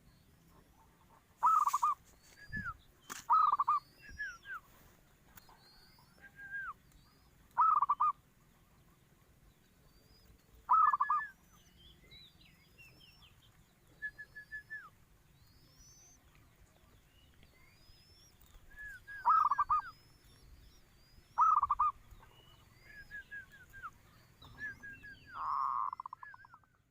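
Zebra dove (perkutut) cooing: a short, rolling coo repeated about seven times at uneven gaps. Fainter high chirps from small birds come in between.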